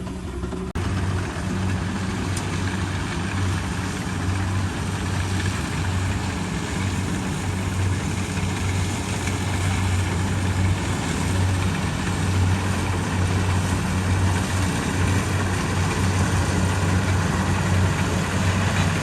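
Kubota DC70 Pro combine harvester's diesel engine running steadily, a constant low hum over mechanical noise, with a sudden shift in the sound under a second in.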